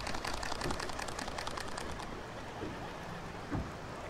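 Fishing reel clicking rapidly, about ten clicks a second, fading out about two seconds in, over steady wind noise.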